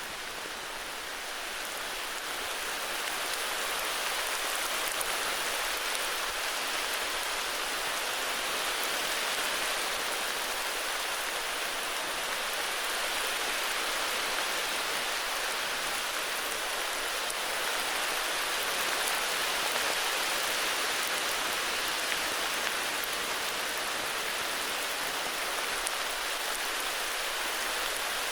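Steady heavy rain, an even hiss with scattered drop ticks, growing a little louder over the first few seconds.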